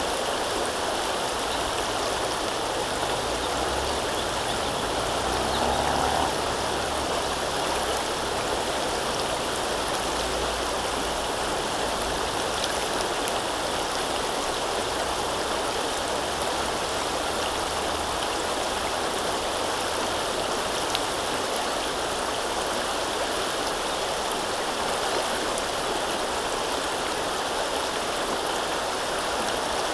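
River water flowing steadily, a continuous rush of running water with a brief slightly louder swell about six seconds in.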